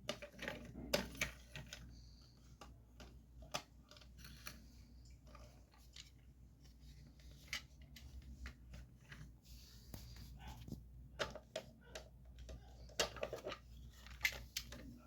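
Small plastic Meitai building bricks being handled and pressed together: scattered, irregular light clicks and rattles, busier for a moment about thirteen seconds in.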